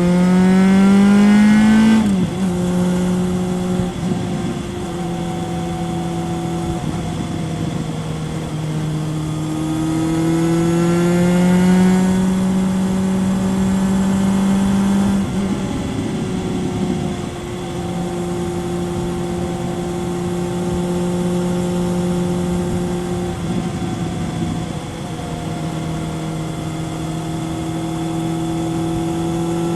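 2000 Kawasaki ZRX 1100's inline-four engine through a Yoshimura exhaust, heard onboard while riding. It revs up and drops at a gear change about two seconds in, pulls up again around ten seconds in, eases back a few seconds later and then holds a steady cruise, over wind noise.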